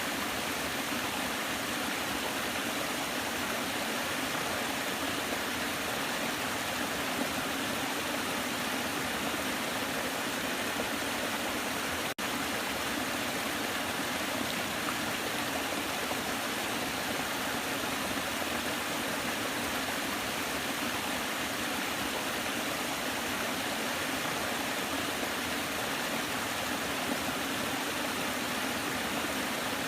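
Steady rushing of a waterfall, an even, unbroken hiss of falling water, with a momentary dropout about twelve seconds in.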